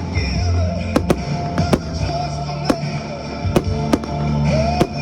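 Fireworks bursting in the air, sharp bangs coming irregularly, about eight in five seconds, over music with a steady bass line.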